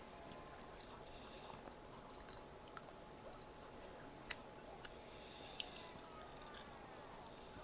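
A person chewing food close to the microphone: soft wet mouth sounds with a few sharp clicks about four to six seconds in.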